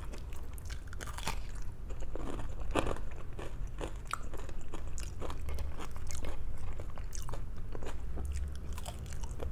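A person chewing and biting food close to the microphone, with irregular crisp crunches.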